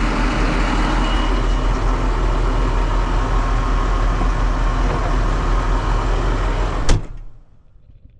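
Truck engine idling steadily with a low hum, then a sharp slam about seven seconds in, like a vehicle door shutting, after which the engine noise drops away to a muffled background.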